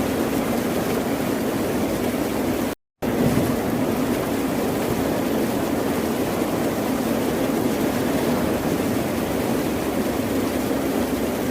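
Steady rushing of ocean surf, a continuous deep wash of waves. It cuts out to silence for a split second about three seconds in, then resumes.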